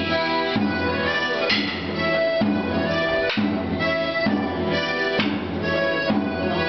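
Accordion playing a lively folk dance tune for morris dancing, with a drum keeping a steady beat a little under once a second.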